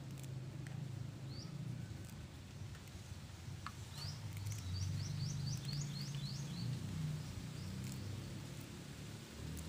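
Steady low outdoor background rumble, over which a small bird gives a few single rising chirps and then, around the middle, a quick run of about eight short rising chirps. Faint clicks come from moringa leaves being stripped off their stems by hand.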